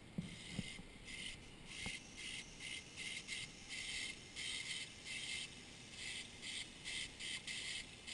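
A hand file rasping on a ring's metal shank in short, even strokes, about two to three a second, as the freshly soldered sizing joint is filed smooth. A few light taps come first.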